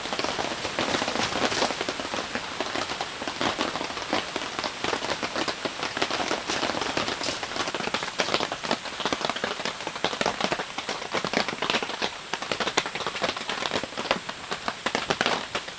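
Heavy rain falling, a dense, steady stream of drops striking close by.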